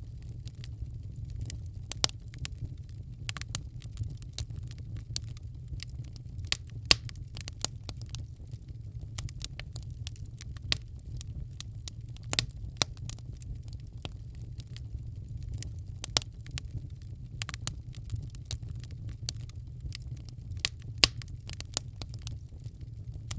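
Wood fire crackling in a fireplace: irregular sharp pops and snaps, a few a second with some louder ones, over a steady low rumble of the flames.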